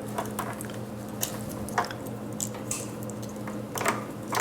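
Scattered small clicks and scrapes of hands pulling wire connectors off a sterilizer's water pump, over a steady low hum.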